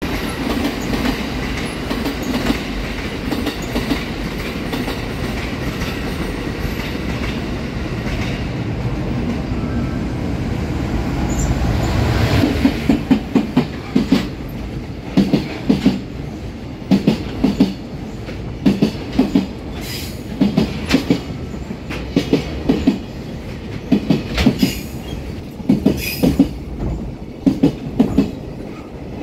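Steady train rumble, then about twelve seconds in a JR Freight EF210 electric locomotive passes close with a loud low rumble. Its container flatcars follow, their wheels clacking over the rail joints in groups about once a second.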